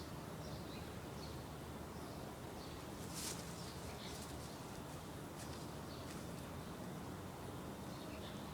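Faint short chirps of a small bird repeating every second or so over steady background noise, with a brief burst of noise about three seconds in.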